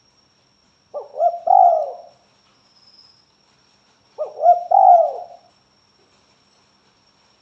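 Spotted dove (tekukur) cooing: two calls of a few quick notes each, about three seconds apart.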